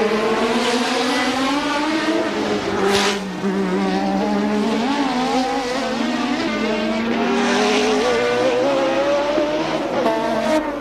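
A 1988 Formula One racing car's engine at full race speed. Its pitch climbs with the revs and drops at gear changes about three seconds in and again near the end, with a brief hiss at the first change.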